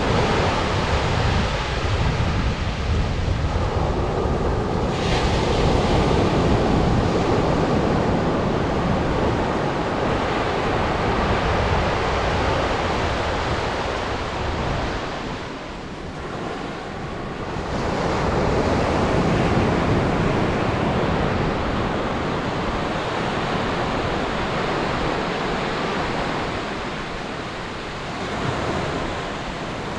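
Atlantic surf breaking and washing on a sandy beach, a steady rushing that swells and eases, with a lull a little past halfway. Wind noise rumbles on the microphone.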